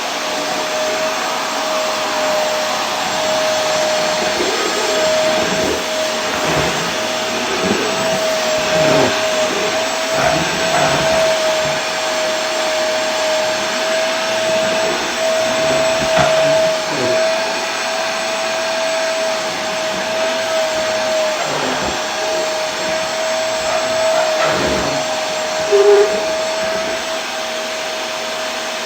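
Vacuum cleaner running steadily: a continuous rushing noise with a steady whine on top. Near the end a brief, louder, lower note sounds for a moment.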